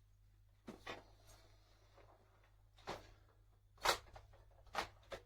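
A few short plastic clicks and knocks from handling the assembled Shark corded upright vacuum cleaner. The loudest knock comes a little before the end.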